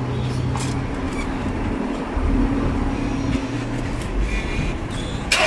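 Steady low hum of an idling vehicle engine, with a few faint clicks and a sharp clatter just before the end.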